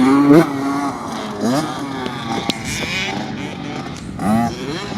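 Dirt bike engine running on the track, revving up in short rising bursts three times as the rider opens the throttle.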